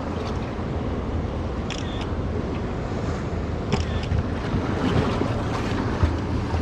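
Wind buffeting the microphone over the wash of waves around a small fishing boat, a steady low rumble, with a couple of brief high squeaks about two and four seconds in.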